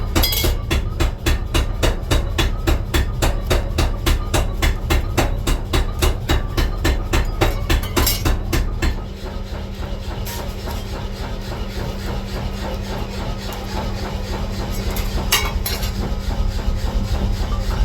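Power hammer pounding steel in rapid, evenly spaced blows, about five a second, which stop about nine seconds in. After that a steady machine drone with a hum runs on, broken by an occasional single strike.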